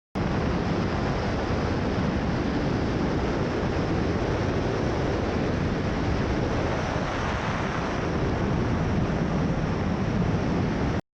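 Steady rush of wind buffeting a camera microphone, as in a skydiver's freefall, starting and cutting off abruptly.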